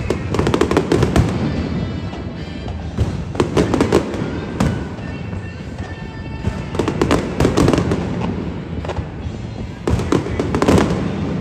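Aerial fireworks shells bursting in rapid clusters, with bangs and crackling every few seconds, over music playing throughout.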